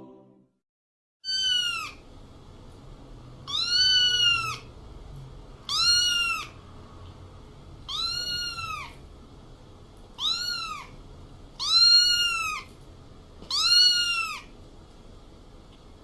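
A cat meowing over and over, seven calls about two seconds apart, each rising and then falling in pitch.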